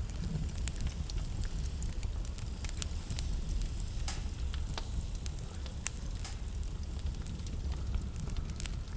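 Wood fire burning in a fireplace: a steady low rumble of the flames under many irregular crackles and pops, with a few louder pops around the middle.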